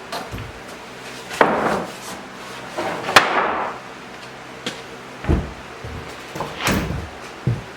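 A series of knocks and bangs from objects being handled and set down, the sharpest and loudest about three seconds in.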